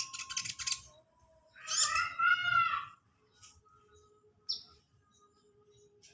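Kolibri ninja sunbird singing: a loud burst of rapid chattering notes at the start, then a loud warbling phrase about two seconds in. A short high whistled note follows about four and a half seconds in.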